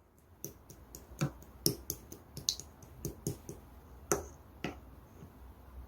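Orange clear slime being pressed and worked by hand, giving an irregular run of sharp sticky clicks and pops that thin out after about four and a half seconds.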